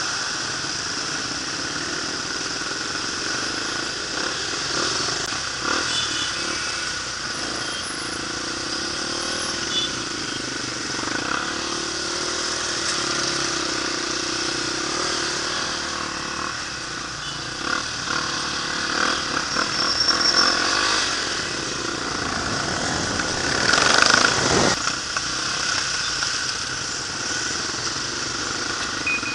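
Honda XR250 dirt bike's single-cylinder four-stroke engine running through city traffic, its pitch rising and falling with the throttle, under wind rush and the sound of other motorbikes around it. The loudest moment comes a few seconds before the end.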